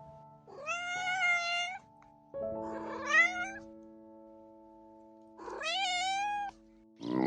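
A cat meowing three times, each meow about a second long and rising in pitch at its start, over soft background music with long held notes.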